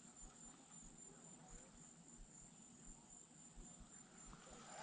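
Faint, steady, high-pitched drone of insects trilling, over an otherwise near-silent background.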